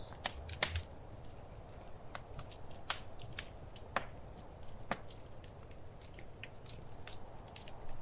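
Wood fire crackling: irregular sharp pops and snaps, a few louder than the rest, over a soft steady hiss.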